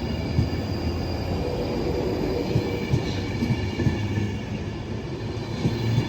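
Electric passenger train running through the station: a steady rumble with irregular knocks of wheels over the rail, and a faint high-pitched wheel squeal held steady.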